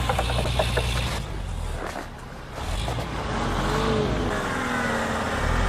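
Off-road vehicle engine revving as it drives, its note rising and falling and getting louder after about two and a half seconds. A run of sharp clicks comes in the first second.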